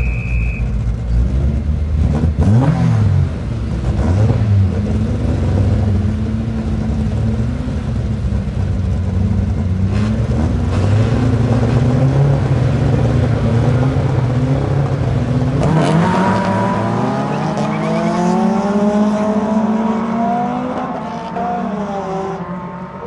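Rallycross cars at a race start: engines held at high revs, with revving sweeps, for about fifteen seconds, then several engines accelerating away with pitches rising and falling through gear changes, fading near the end. A short high beep sounds at the very start.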